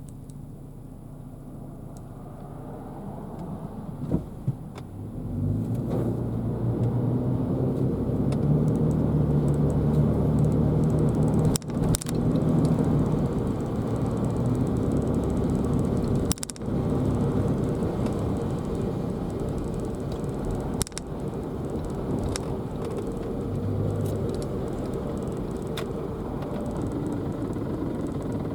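Car in motion: a low engine and road rumble that swells about five seconds in and then holds steady, with a few sharp clicks.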